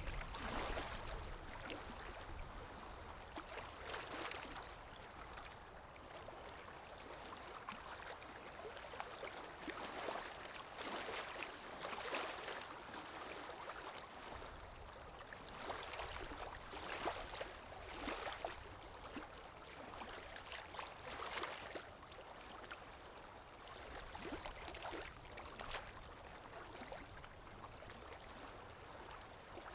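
Water sloshing and splashing in irregular surges every second or two over a steady wash.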